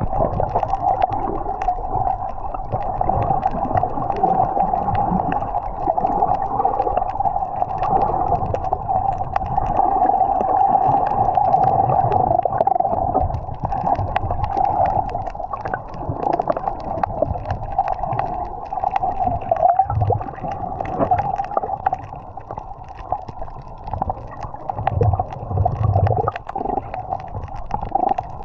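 Muffled underwater sound picked up by a camera while snorkeling: water gurgling and rumbling, with a steady drone and many small crackles and clicks throughout.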